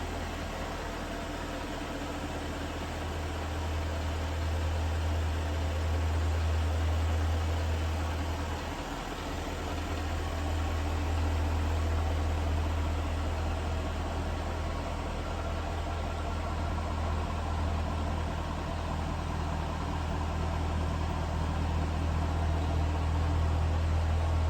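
Jaguar F-Type R's supercharged V8 idling with a steady low drone that dips briefly about nine seconds in.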